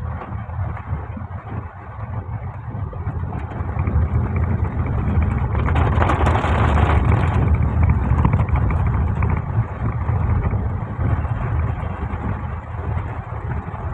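Car engine and road noise heard from inside the cabin while driving on wet roads, a steady low rumble that swells into a louder rush about six seconds in.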